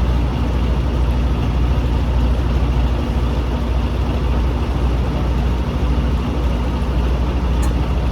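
Semi-truck's diesel engine running steadily at an even, low speed.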